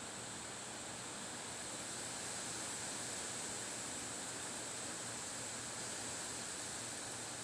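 Steady wind blowing: an even, high hiss that swells slightly a couple of seconds in.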